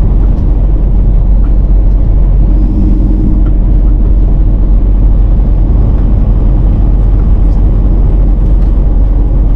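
Semi truck's engine and drivetrain rumbling steadily, heard inside the cab.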